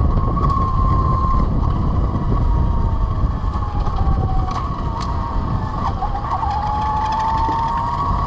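Velimotors VMX12-F electric motorcycle's drive whine: a thin steady tone that falls in pitch through the middle as the bike slows, then rises again toward the end as it speeds up. Under it runs a heavy low wind rumble on the microphone.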